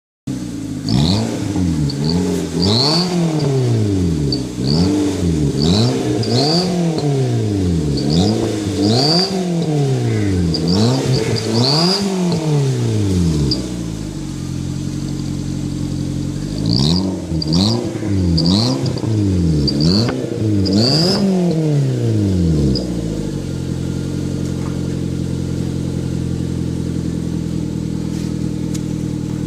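2006 Suzuki Swift 1.3's four-cylinder engine blipped in a quick series of revs through a Nitto racing muffler, settling to idle for a few seconds before a second series of revs and then a steady idle. A short high whistle from the exhaust-mounted turbo whistler chirps with each rev.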